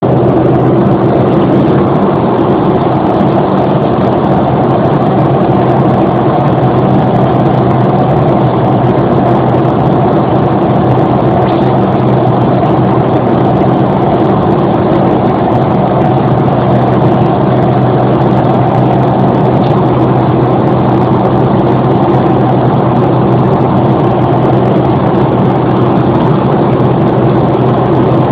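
Airplane engines and rushing air making a loud, steady drone inside the passenger cabin, with a low hum under a broad hiss.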